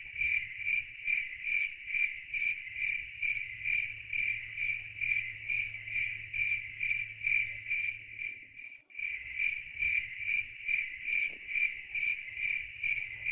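Cricket chirping, laid in as a sound effect: a steady, even high-pitched chirp about three times a second, with a brief break about two-thirds of the way through.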